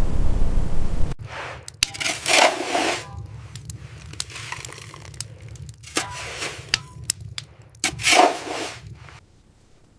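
Steady wind noise that cuts off suddenly about a second in, followed by a run of sharp cracks and scraping sounds, the loudest bursts about two and eight seconds in.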